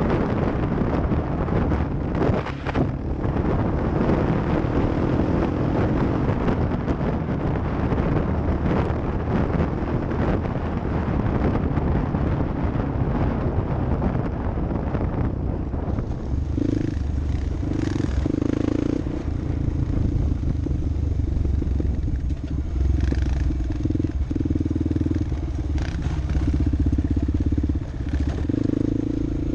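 Off-road vehicle engine running under way, mixed with wind and rough-ground noise for the first half. From about halfway a steadier engine note stands out, with occasional clatter.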